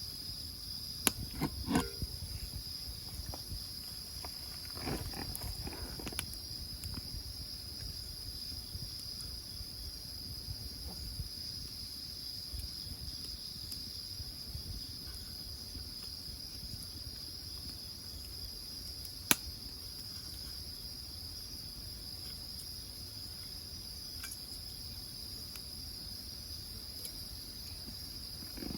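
Crickets trilling steadily at a high pitch, with a few sharp pops from a wood fire, the loudest about two-thirds of the way through.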